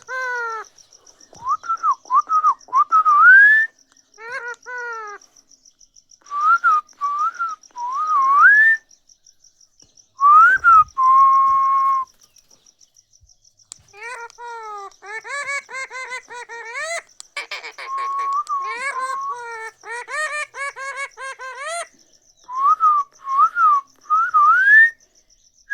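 A pet parrot whistling in short rising and wavering phrases, mixed with harsher, chattering calls. The whistling comes in bursts with brief pauses, busiest from about fourteen to twenty-two seconds in.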